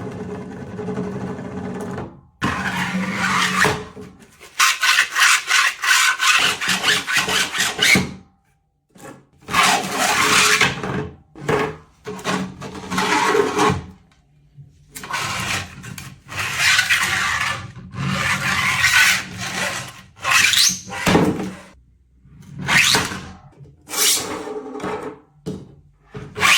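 Repeated rasping strokes, each a second or two long, with short pauses between, after about two seconds of a steadier hum.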